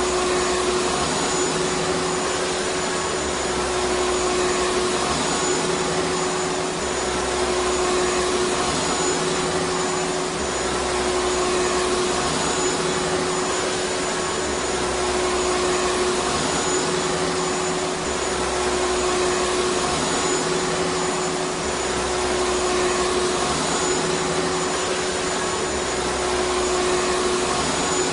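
Vacuum cleaner running steadily: an even rush of air with a constant hum underneath, with no change in speed or load.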